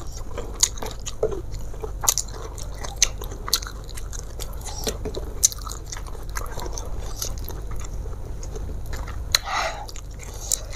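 Chewing close to a clip-on microphone, with scattered small clicks and crackles as a fried petai (stink bean) pod is split open by hand and its beans are pulled out.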